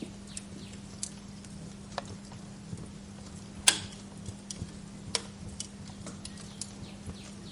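Wood fire crackling in a fireplace: irregular sharp pops and snaps over a steady low background, with the loudest snap a little past halfway.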